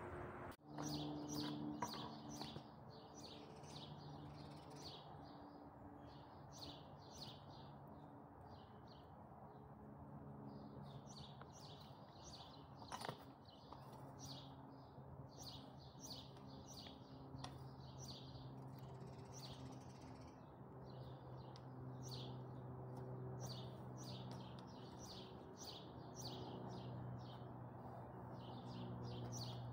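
Small birds chirping, faint: short high notes repeated in quick clusters throughout, over a low steady hum.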